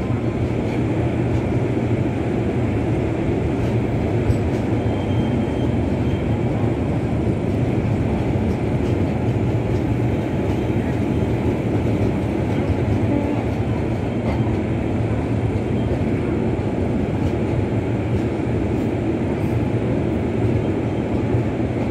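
LHB passenger coaches of an express train rolling past along the platform as it pulls into the station: a steady rumble of wheels on rail.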